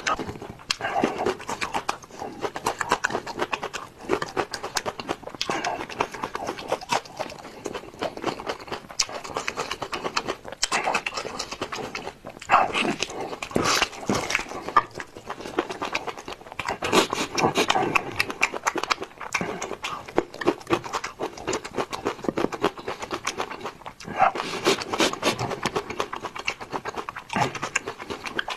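A man chewing raw onions with loud, wet crunching and smacking, panting and breathing hard between bites from the burning heat.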